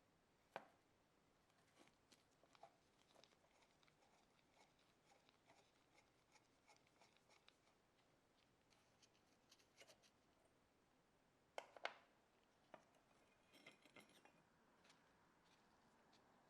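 Faint scattered taps and clicks of small hard parts being handled, with a sharper knock just after the start, two more about two-thirds of the way through, and a short rattling run of clicks soon after.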